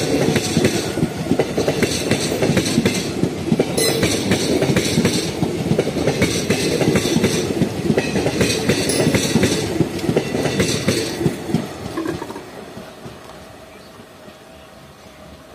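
Howrah Balurghat Express passenger coaches rolling past at close range, the wheels clattering over the rail joints in a rhythmic clickety-clack. The sound fades away from about twelve seconds in as the last coach passes and the train draws off.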